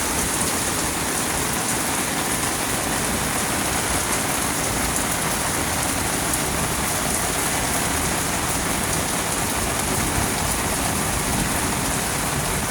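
Steady soaking rain falling, an even hiss of many drops that keeps up without a break.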